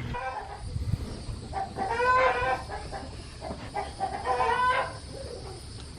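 Chickens calling in a barn: two drawn-out calls about two seconds apart, among the birds penned in the stalls.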